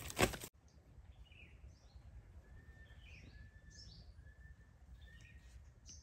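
Birds chirping: many short, quick falling chirps with a few faint thin whistled notes, over a low steady background noise. A brief burst of loud clicks cuts off abruptly about half a second in.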